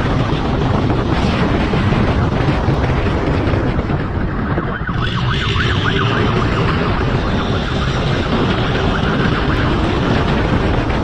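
Motorcycle running hard at speed under heavy wind rush, with a police siren wailing through it from about halfway in.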